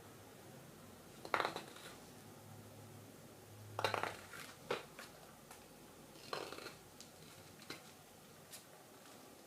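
Carving knife slicing thin shavings from cherry wood while cleaning up the inside of a spoon bowl: about six short, crisp cuts at uneven intervals.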